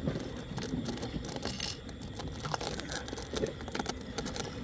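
Light handling noises: scattered small clicks and rustles over a faint steady background hiss.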